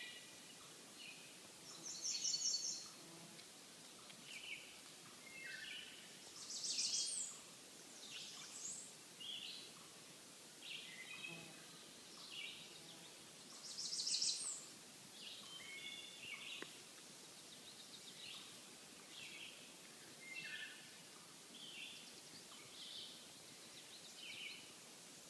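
Several songbirds singing, short high phrases repeating over a faint background hiss. A louder, high rapid trill from one bird stands out three times, about two, seven and fourteen seconds in.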